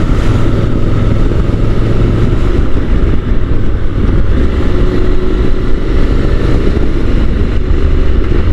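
Honda NC750 motorcycle's parallel-twin engine pulling steadily up a climb, mixed with heavy wind rush on the rider's microphone.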